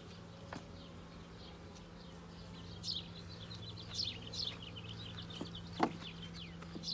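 Steady low hum of a honeybee colony in an open hive. Small birds chirp in short, falling notes from about three seconds in, and there is a single sharp knock near the end.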